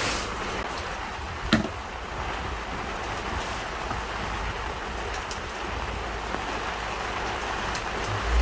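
Heavy rain pouring steadily, with a single sharp knock about one and a half seconds in.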